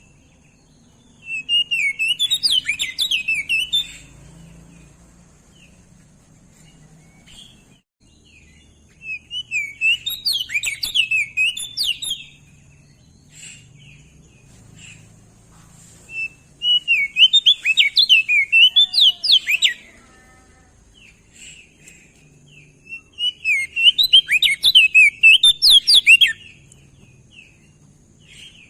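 Crested white-eye (Opior Jambul) singing: four bursts of fast, warbling up-and-down notes, each lasting about three seconds with pauses of about four seconds between them.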